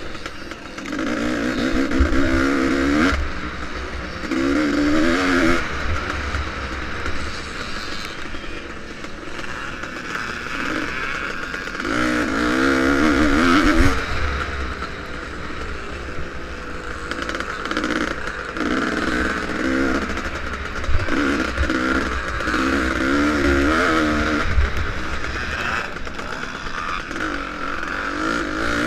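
Vintage motocross bike engine revving hard in repeated surges, its pitch climbing and dropping every few seconds as the throttle opens and closes around the track, over a constant low rumble.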